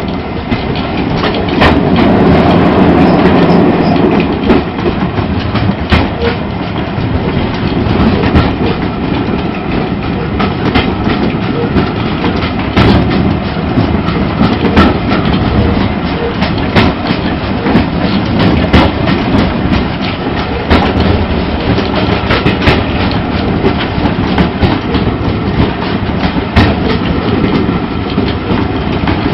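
Steam-hauled train carriage running on the rails, heard from inside the wooden carriage: a steady rumble and rattle with frequent sharp clicks of the wheels over rail joints, loudest a couple of seconds in.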